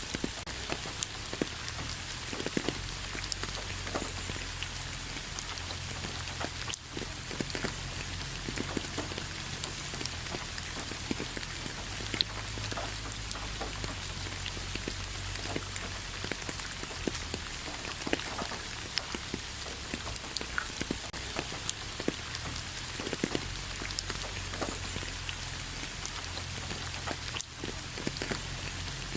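Steady rain, with many individual drops striking close by as sharp ticks over an even hiss and a low rumble underneath. The level dips briefly twice.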